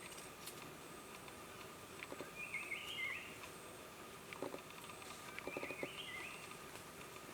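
Two short warbled bird calls about three seconds apart, over a faint high insect buzz and a few soft clusters of taps.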